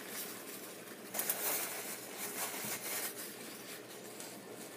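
A person chewing fried, breaded mac-and-cheese bites (Burger King Mac n' Cheetos), with a few short crisp mouth clicks about a second in.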